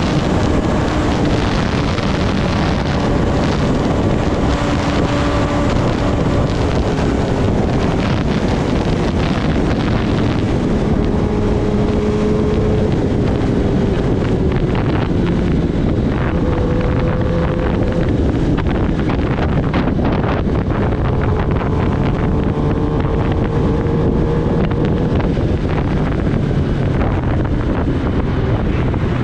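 Kawasaki Ninja ZX-10R's inline-four engine running under way at a fairly steady pitch, with heavy wind noise on the microphone.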